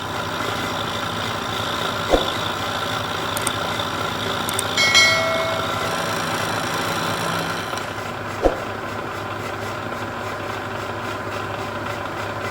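Vertical milling machine running as an end mill cuts along the edge of a steel flat bar to square it. The machine and cut make a steady, even noise, with two short knocks and a brief high ringing tone about five seconds in.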